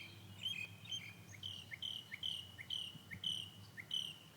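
A bird singing a steady run of short, high whistled notes, about two a second, each with a quick downward slur, over a faint low hum.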